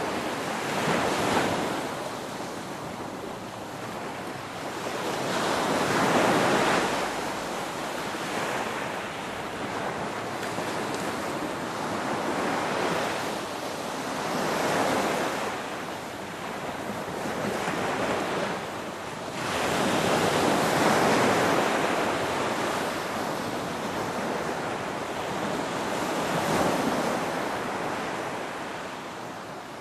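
Ocean surf: waves breaking and washing in, the rush of water swelling and fading again every few seconds.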